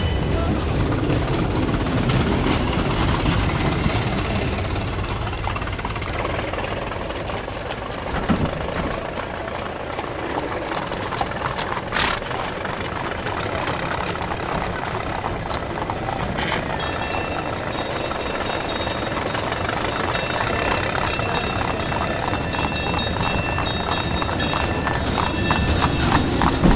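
Old-time street traffic: a streetcar rattling along its rails and early motorcar engines running, with scattered knocks and clatter.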